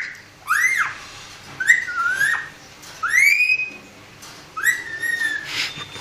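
Parrot whistling: four separate clear whistles, each rising in pitch, one dipping and rising again before it ends.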